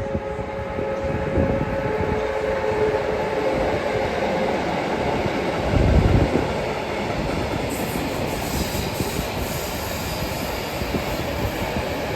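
Freight train of tank wagons passing, with a steady rumble and clatter of wheels on rail. A heavy thump comes about six seconds in.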